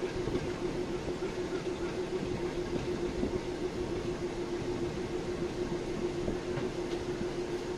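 Passenger train rolling slowly along the track, heard from a carriage window: a steady rumble of wheels on rail with a steady hum over it.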